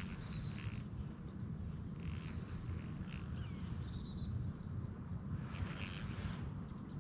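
Songbirds chirping in short, scattered calls and trills, with a high falling whistle heard twice, over a steady low rumble.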